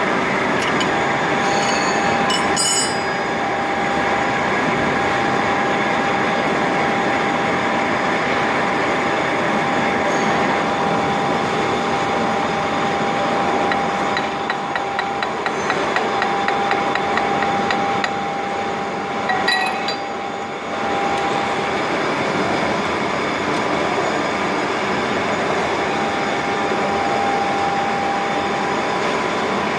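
Horizontal boring mill running: steady machine noise with a steady whine that stops about two-thirds of the way through and returns briefly near the end. A quick run of ticks comes about halfway through, and a few sharp metallic clinks come early on and again just before the whine stops.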